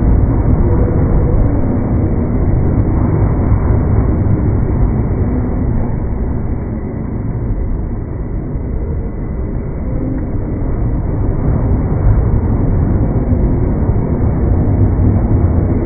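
Slowed-down sound of an electric commuter train passing over a level crossing: a steady, loud low rumble that eases a little midway and then swells again.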